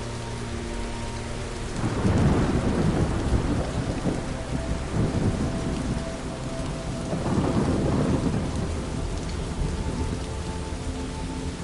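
Steady rain falling, with a long rumble of thunder that breaks in about two seconds in, swells again a little after the middle, and dies away near the end.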